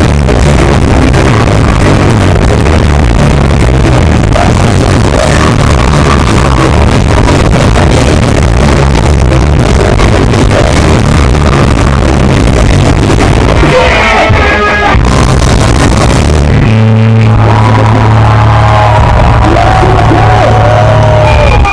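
Punk rock band playing live at full volume, overloading the recording with distortion. About three-quarters of the way through, the dense full-band sound drops away, leaving a held low note with wavering higher tones over it.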